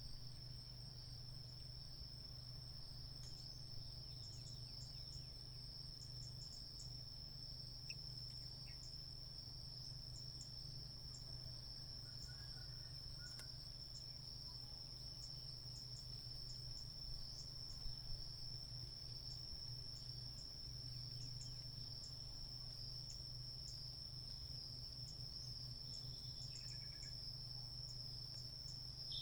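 A steady, high-pitched insect trill, with faint ticks and a few brief, faint chirps over a low hum.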